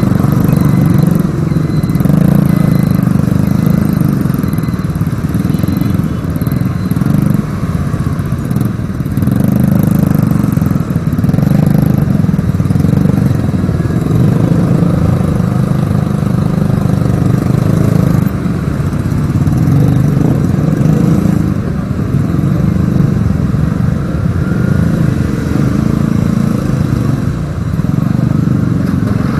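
Motorcycle being ridden, its engine running steadily, heard through a loud low rumble of wind buffeting the action camera's microphone that swells and eases every few seconds.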